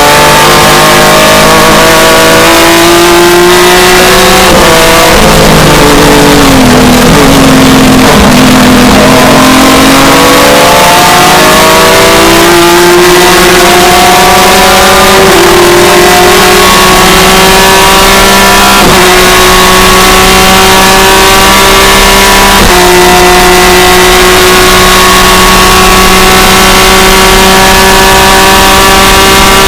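Six-cylinder engine of a BMW E36 M3 IMSA GT race car at racing speed, heard from inside the cabin. The revs fall with blips of the throttle on downshifts about four seconds in, then it accelerates hard and changes up through the gears several times.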